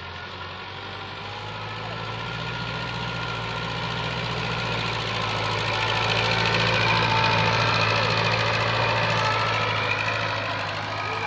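TAFE farm tractor's diesel engine running steadily with a low hum, growing louder to a peak about two-thirds of the way through and then easing off as it passes.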